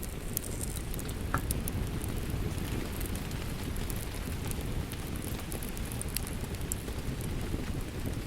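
Steady rain, heard as an even low rushing noise, with the scattered sharp crackles and pops of a wood fire in a fireplace.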